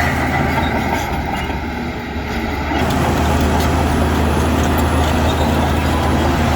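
Heavy diesel engine of earthmoving equipment running steadily at a low, even pitch. It drops somewhat in level and brightness for about two seconds, from a second in, then picks back up.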